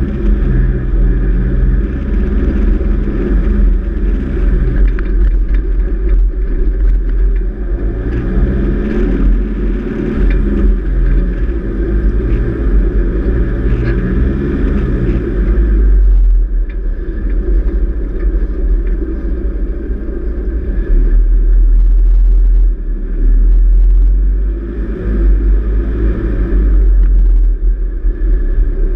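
Four-wheel-drive vehicle driving over soft beach sand and onto a dirt track, engine revs rising and falling with a deep, steady rumble underneath.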